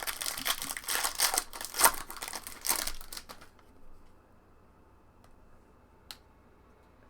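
A trading card pack wrapper being torn open and crinkled for about three and a half seconds. Then it goes quiet apart from a single click about six seconds in.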